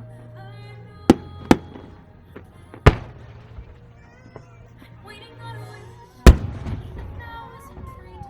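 Fireworks shells bursting: four sharp bangs, two close together about a second in, one near three seconds, and the loudest a little past six seconds, with crackle after it. Show music plays throughout.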